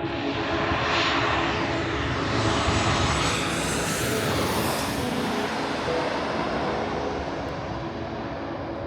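Jet airliner passing overhead: the engine noise swells to a peak about four to five seconds in, then fades away.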